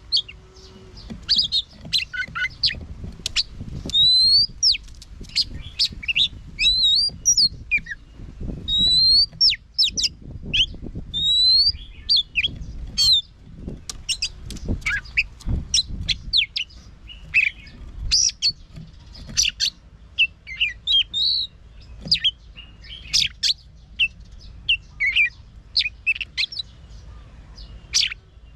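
Oriental magpie-robin singing a long, varied song of rapid whistles, sharp high notes and rising slurred phrases, with short gaps between phrases. A low rumble runs underneath.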